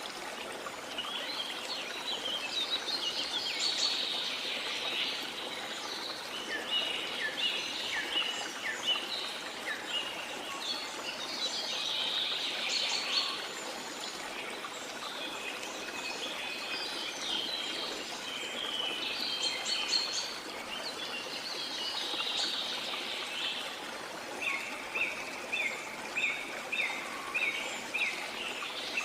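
Tropical rainforest ambience: many birds calling and singing over the steady rush of a waterfall. Near the end one bird repeats a short note about twice a second.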